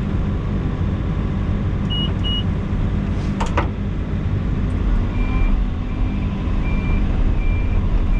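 Heavy earthmoving machine's engine running steadily, with two short high beeps about two seconds in, a sharp knock a little later, and a short beep repeating about every three-quarters of a second from about five seconds in.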